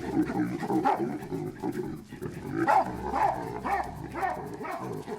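Baboons barking and calling, with a run of sharp barks coming about twice a second in the second half.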